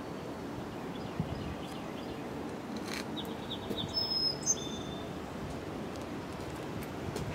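Steady outdoor background rumble under a stormy sky, with a few short high bird chirps about four seconds in.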